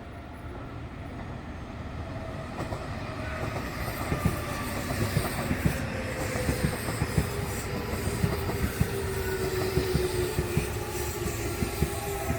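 Nankai Railway electric train approaching and running past, growing louder over the first few seconds, its wheels clacking over rail joints from about four seconds in, with a steady motor whine that slowly falls in pitch.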